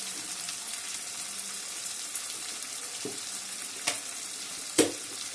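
Potatoes and onion-spice masala sizzling steadily in hot oil in a metal wok, with two sharp knocks about four and five seconds in, the second the louder.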